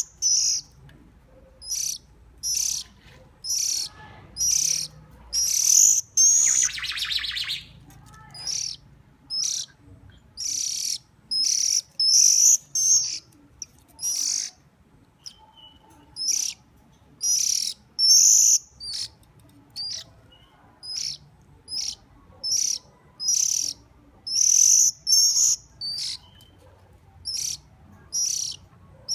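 A hungry bird calling for food with short, high chirps over and over, about one a second, with one longer raspy call about seven seconds in.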